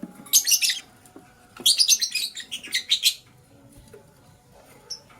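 Lovebird chirping: two quick runs of shrill, rapid chirps, the second longer, then a single short chirp near the end.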